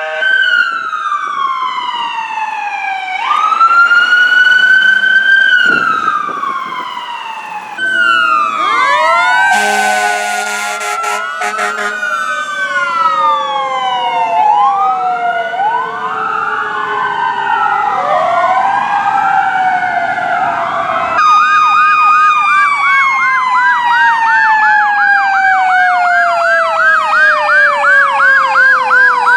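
Fire apparatus sirens sounding on a response. Wailing sweeps rise and fall, then several sirens overlap with a short steady horn blast about ten seconds in. After that a fast warbling yelp plays over a long, slowly falling siren tone.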